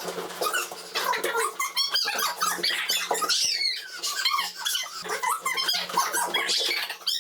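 Rubber balloons squeaking over and over as they are batted and grabbed, many short wavering squeaks one after another, over a faint steady hum.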